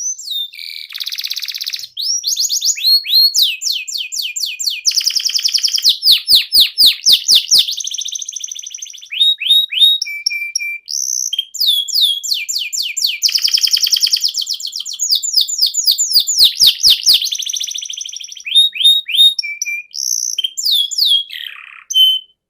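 Male canary singing a long, continuous song of fast trills and rapidly repeated sweeping notes, switching phrase every second or two with barely a pause.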